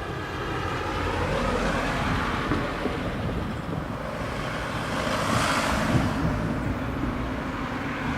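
Car noise passing by, a rushing sound that swells about two seconds in and again about five seconds in, after an engine tone fades out at the start.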